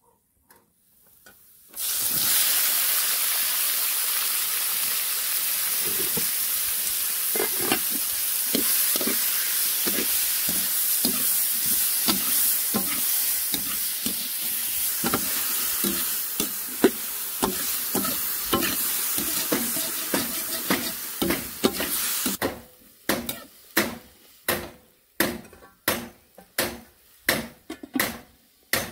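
Food dropped into hot oil in a blackened iron wok: a sudden loud sizzle starts about two seconds in, with a wooden spoon knocking and scraping against the pan as it is stirred. The sizzle cuts off abruptly about three quarters through, leaving a run of separate sharp knocks.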